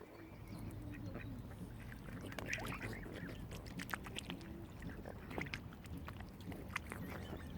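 Mute swans and cygnets on the water giving short soft calls, about two and a half seconds and five and a half seconds in, among many short sharp clicks and splashes of bills and water.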